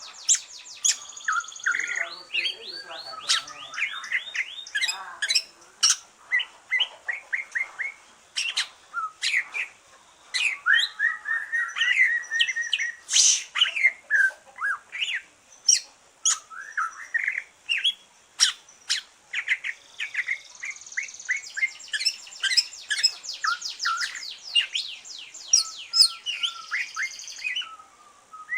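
Cucak ijo (green leafbird), just out of its moult, singing a varied, continuous song of fast trills, sharp chirps and short whistled phrases.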